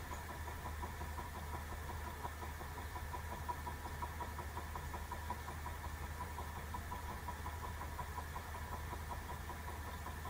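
Two small model Stirling engines with lightweight wooden pistons running steadily, making a fast, even ticking.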